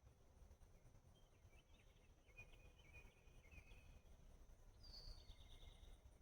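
Faint bird calls: a run of short chirps in the first half, then a high down-slurred whistle followed by a brief buzzy trill about five seconds in, over a low rumble of background noise.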